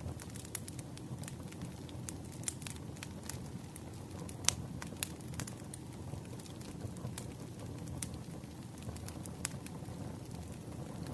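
Wood fire crackling: a steady low rumble under frequent irregular sharp pops, the loudest about four and a half seconds in.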